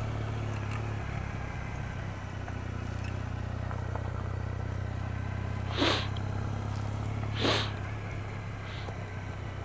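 Motorcycle engine running steadily under the rider, a 2008 Triumph Bonneville's air-cooled parallel twin, with an even low hum. Two short rushing bursts of noise come about a second and a half apart, past the middle.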